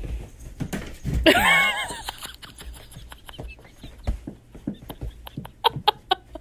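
A domestic cat gives one loud, bending cry about a second in, followed by a run of short taps and thumps that come faster near the end.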